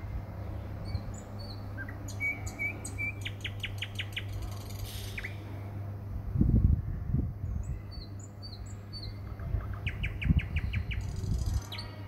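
Small birds chirping, with short high calls and two quick rattling trills. Low bumps or rumbles, about six and ten seconds in, are the loudest moments, over a steady low hum.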